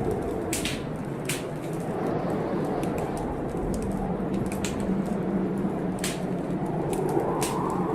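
Wood fire crackling, with sharp irregular pops, over steady blizzard wind blowing outside the window, which swells slightly near the end.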